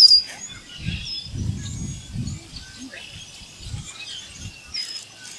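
Small birds chirping and whistling in an outdoor ambience, with one loud sharp chirp at the start. Low muffled rumbles come and go in the first couple of seconds.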